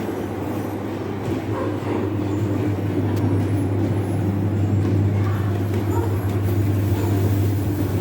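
Walk-through attraction's show soundtrack: a loud, steady low rumble that swells about a second in, with faint short sounds scattered over it.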